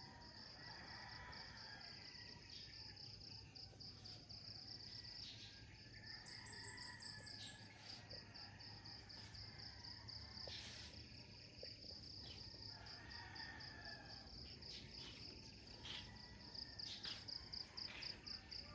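Crickets chirping: a faint, steady, rapidly pulsing high trill, with a few soft ticks.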